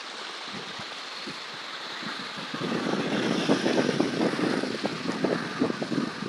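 Strong wind buffeting the microphone, a steady rush that turns into heavier, irregular low buffeting gusts about two and a half seconds in.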